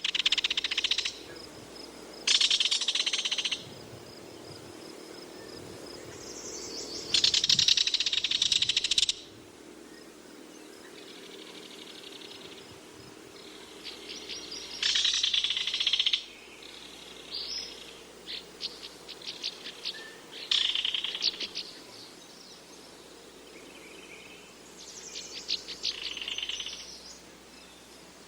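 Belted kingfisher giving its dry rattling call, a fast run of clicks, in repeated bursts of one to two seconds with shorter, sparser rattles between them.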